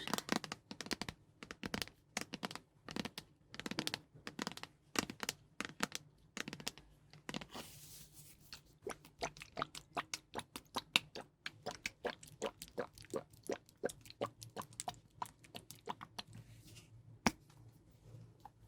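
Close-miked ASMR trigger sounds: rapid crisp crackles and small clicks, denser in the first half, with a short brushing hiss about eight seconds in and one sharper click near the end.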